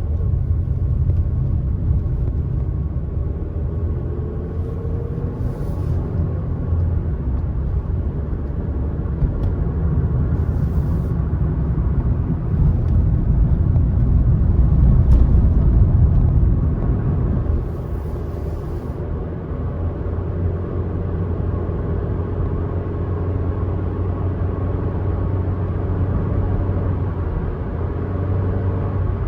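Car driving along a country road: a steady low rumble of engine and tyres, swelling louder for a few seconds in the middle, with three brief faint hisses.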